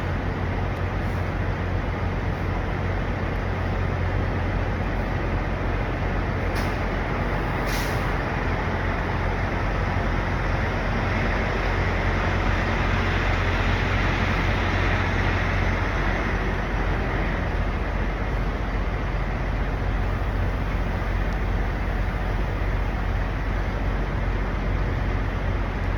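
Semi-trucks' diesel engines idling steadily, with two short air hisses about seven and eight seconds in. The noise swells for several seconds in the middle.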